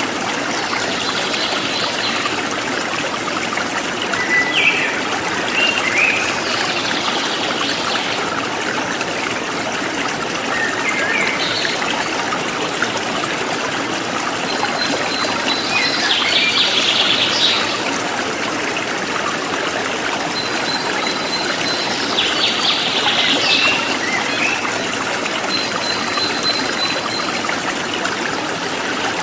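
Forest stream flowing steadily, with birds chirping now and then over it: short bursts of song and a few thin, held high whistles.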